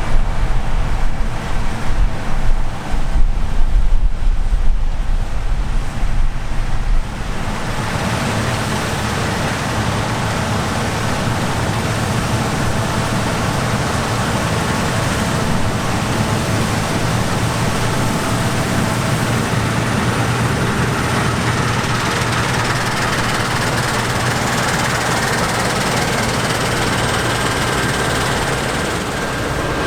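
Harvest machinery running steadily. For roughly the first seven seconds a heavy, uneven low rumble rises and falls over it; then the sound settles into a steady, even drone.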